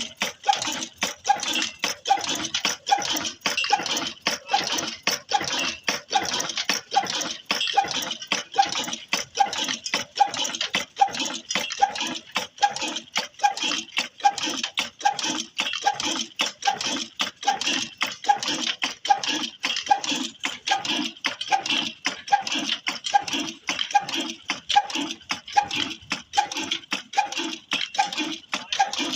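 Old Ruston stationary engine running steadily on a tubewell pump, with an even beat a little under twice a second and a quick metallic clatter between beats.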